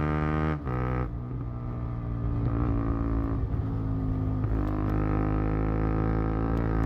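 KTM Duke 125 single-cylinder four-stroke exhaust note while riding at speed. The note drops sharply about half a second in and runs quieter and rougher for a few seconds, then builds back to a steady pull from about four and a half seconds.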